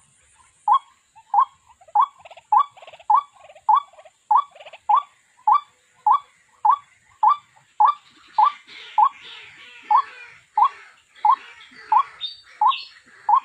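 White-breasted waterhen calling: one short croaking note repeated steadily, a little under twice a second. Over the second half a rougher, scratchy chatter joins the calls.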